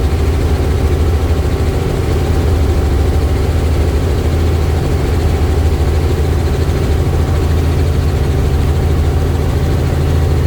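Helicopter rotor and turbine engine running steadily: a loud, constant low drone with a fast, even beat.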